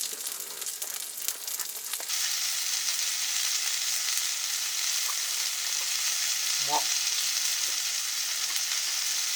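Meat sizzling steadily on a hot cooking surface, with a few light clicks at first; about two seconds in the sizzle jumps up and grows louder and denser, as when fresh food hits the heat.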